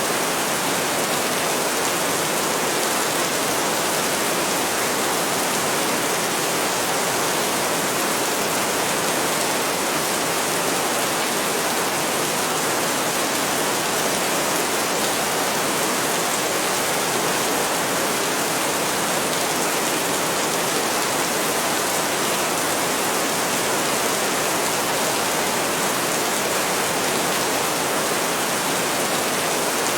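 Heavy rain falling steadily as an even, unbroken hiss, with no thunder.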